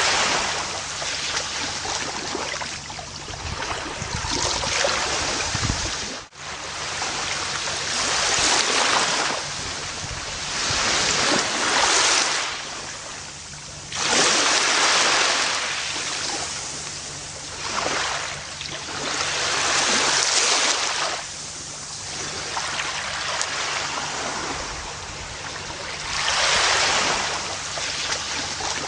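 Gentle ocean waves washing onto a beach, each one surging and drawing back every few seconds, with a brief sudden cut in the sound about six seconds in.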